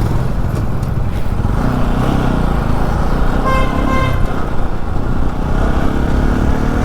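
Motorcycle running along a road with steady engine and road noise, and a vehicle horn honks once, briefly, about three and a half seconds in.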